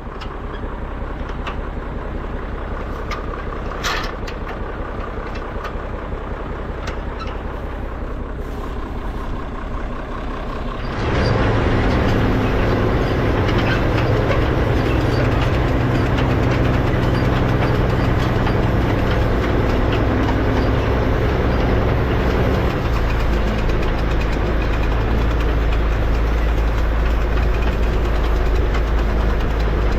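Tractor engine running steadily while pulling a hay rake through the windrows; the engine sound becomes markedly louder and fuller about eleven seconds in and holds there.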